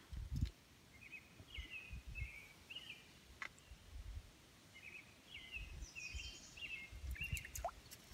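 A songbird singing faint, short phrases of quick chirpy notes, in two bouts, over low rumbles and a few light clicks.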